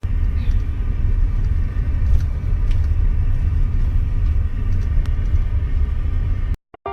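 Steady low rumble that cuts off abruptly near the end.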